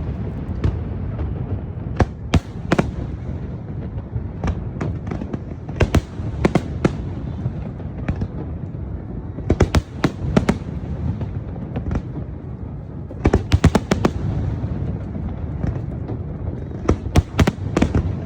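Aerial fireworks bursting: sharp bangs come in quick clusters of several every three to four seconds, over a steady low rumble.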